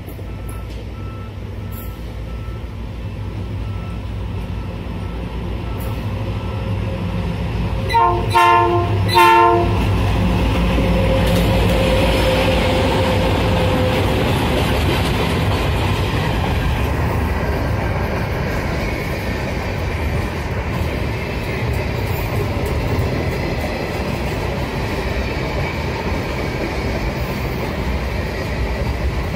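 Two diesel freight locomotives, an EMD GT22 and an ALCo, approaching and passing at the head of a long container train: the engine rumble grows for about ten seconds, the horn sounds two short blasts about eight seconds in, then the container wagons roll by steadily.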